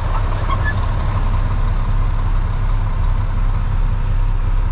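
Freightliner FLD dump truck's diesel engine idling, heard from inside the cab as a steady low rumble.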